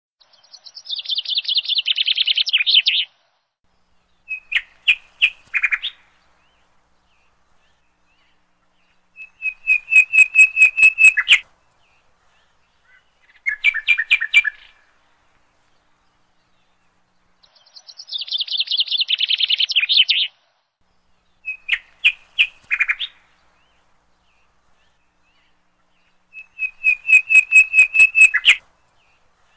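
Birdsong: a small songbird singing in separate phrases of fast trills and clear whistled notes, with pauses of one to three seconds between them. The same run of phrases comes round again about seventeen seconds later, as in a looped recording.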